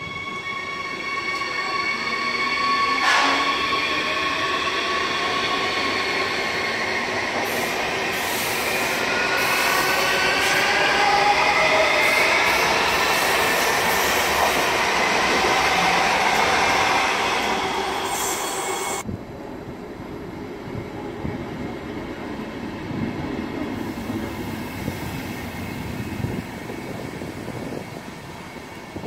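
Electric multiple unit passing close by on the platform track. Its high whining tones shift in pitch, with wheel squeal among them. About two-thirds of the way through the loud whine drops off suddenly, and a train of Intercity coaches rolls past with a lower rumble and wheel clatter.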